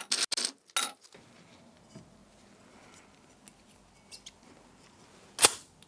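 A glass soda bottle being handled and opened: a few short scrapes and clicks in the first second, then one louder sharp noise a little after five seconds in.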